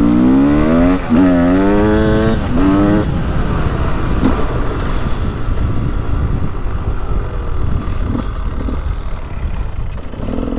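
Beta 300 Race Edition two-stroke dirt bike engine accelerating under throttle. The revs climb, dip briefly at a gear change about a second in, and climb again. About three seconds in the throttle snaps shut and the engine drops back to a low, uneven run while the bike rolls on.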